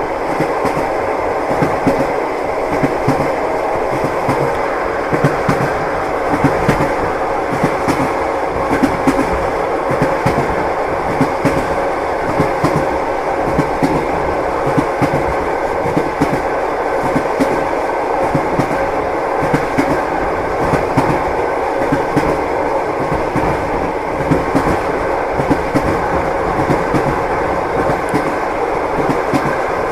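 Train wheels clattering over the rails: a steady rolling noise with frequent short knocks throughout.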